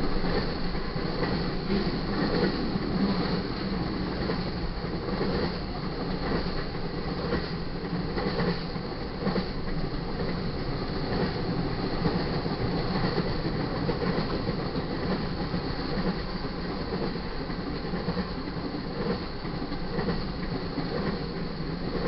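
Intermodal freight cars loaded with highway trailers and containers rolling steadily past: a continuous noise of steel wheels on rail with repeated clacks as the trucks cross the rail joints.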